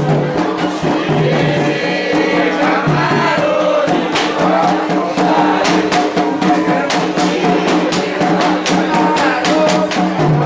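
Group singing a Candomblé ritual chant, joined about four seconds in by sharp, regular percussion strikes.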